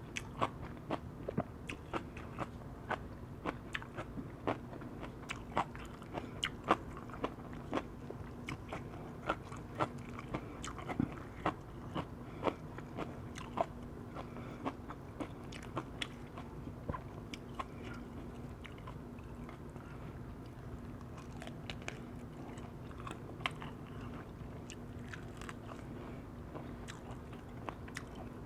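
Close-miked chewing of firewood-roasted chicken: a steady string of wet, crunchy mouth clicks and smacks, thick through the first half and thinning out after the middle, over a faint steady hum.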